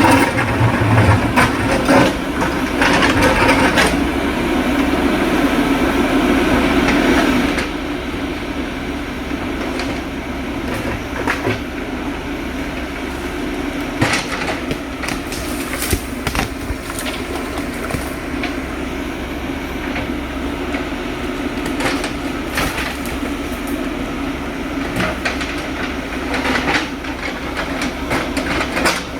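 JCB backhoe loader's diesel engine running, working hard for the first seven seconds or so, then dropping to a lower steady run, with frequent metallic clanks and rattles from the machine throughout.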